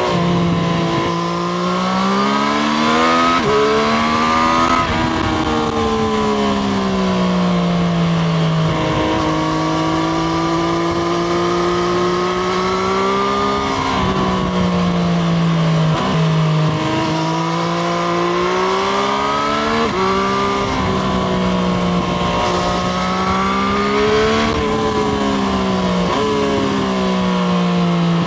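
Triumph Street Triple RS's 765 cc three-cylinder engine heard onboard while riding. Its pitch climbs and then drops sharply several times as it is shifted up through the gears, with steadier cruising stretches between.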